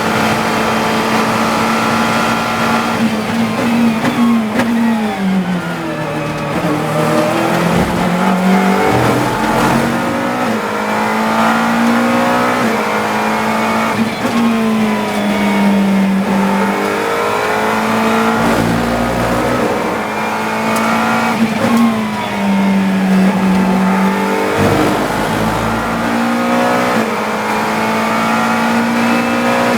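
GT3 race car engine heard from the cockpit at racing speed. Its pitch holds steady for the first few seconds, then falls and climbs again several times with brief breaks between gears, as the car brakes, downshifts and accelerates through corners.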